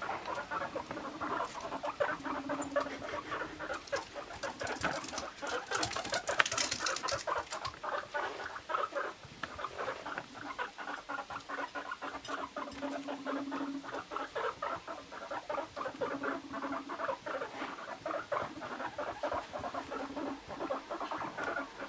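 Guinea pigs moving about, making fast, dense pattering clicks, with short low buzzing stretches every few seconds.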